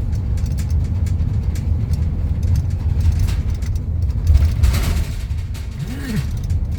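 Road and engine noise inside a moving car's cabin: a steady low rumble, with a short tone rising and falling in pitch about six seconds in.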